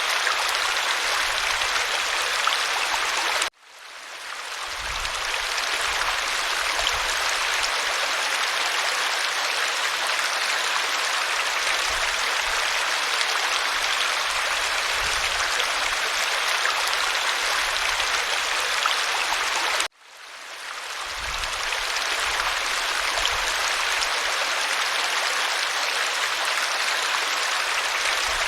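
Waterfall rushing as a steady hiss of falling water. It cuts out abruptly twice, about three and a half seconds in and again near twenty seconds, each time swelling back to full strength over a couple of seconds.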